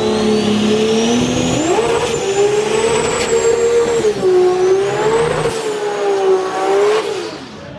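Drag race vehicle engine at full throttle down the strip, its pitch climbing and then dropping back several times as it shifts through the gears, with a high whine rising above it. It fades near the end.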